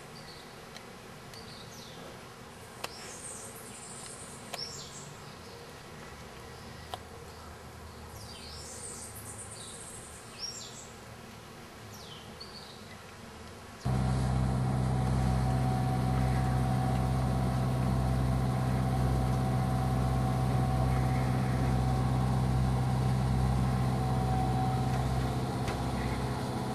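Birds chirping over a quiet background, with a few light clicks. About fourteen seconds in, the sound cuts abruptly to a loud, steady engine drone with a deep hum and a fainter higher whine.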